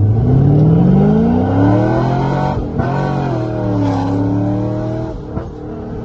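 2006 C6 Corvette's LS2 V8 with catless headers and a cat-back exhaust accelerating hard. The revs climb through a gear for about two and a half seconds, break briefly at the upshift, then pull again in the next gear before easing off near the end.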